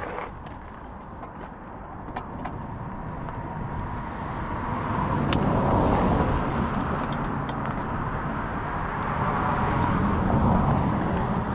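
Riding noise from an electric bike on the move: wind and tyre rumble with a faint steady motor whine, swelling louder about halfway through and again near the end, with a few small ticks.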